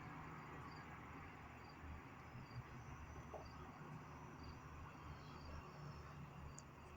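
Faint insect chirping: short chirps repeating evenly, a little under two a second, over a quiet low steady hum.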